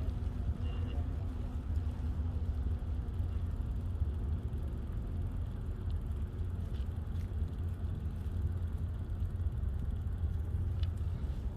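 Steady low rumble of wind buffeting and rolling noise picked up while riding a bicycle, with a few faint clicks.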